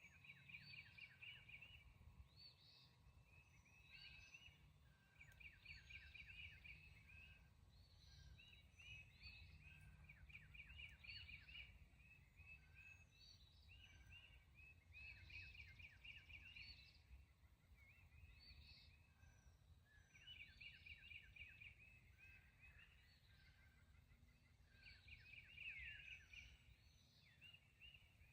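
Faint outdoor bird calls: short, rapid trills repeat every second or two throughout. A low rumble of wind or microphone noise runs underneath.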